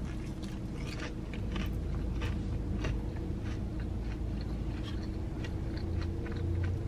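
Biting into and chewing a crispy fried egg roll: many small, irregular crunches throughout, over a steady low hum.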